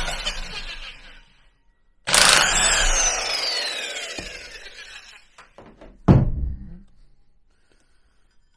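Two bursts of a power tool, most likely an impact wrench, working the clutch nut off a 1986 Honda Elite scooter; the second trails off in a whine that falls steadily in pitch as the tool spins down. A single heavy thunk follows about six seconds in.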